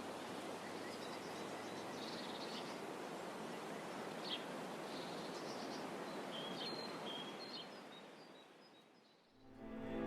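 Outdoor woodland ambience: birds chirping and calling now and then over a steady background hiss, fading out near the end.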